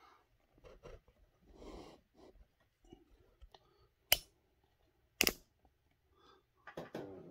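Small transmission parts and tools being handled on a workbench: soft rustling and light knocks, with two sharp clicks about a second apart near the middle.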